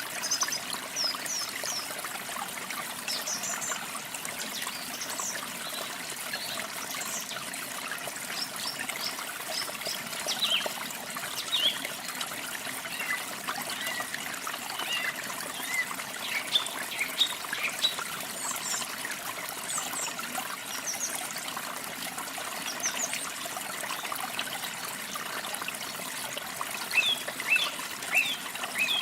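Water trickling steadily while small songbirds chirp in short, high notes scattered throughout, most thickly near the end.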